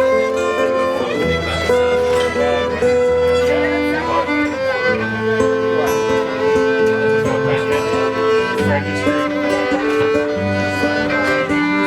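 Live band playing an instrumental intro, with a fiddle carrying the melody over a bass line.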